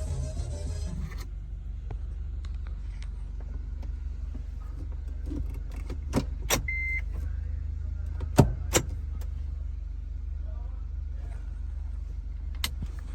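A car's steady low hum with a handful of sharp clicks and one short beep about seven seconds in. A car stereo playing music cuts off about a second in.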